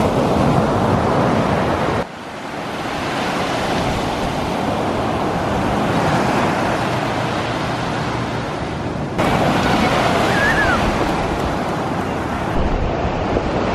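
Ocean surf washing onto the beach, with wind on the microphone. The level drops suddenly about two seconds in and jumps back up near nine seconds.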